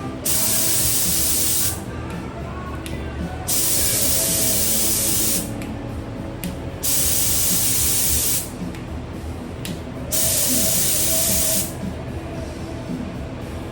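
Paint spray gun spraying in four bursts of about a second and a half each, with short pauses between passes as the trigger is released.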